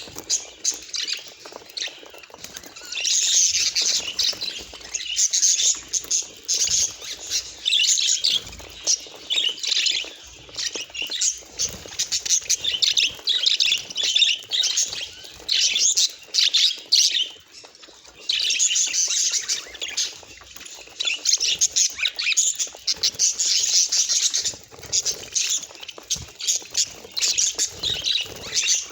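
Budgerigar chattering and warbling: a fast, continuous stream of chirps and squawks, pausing briefly twice.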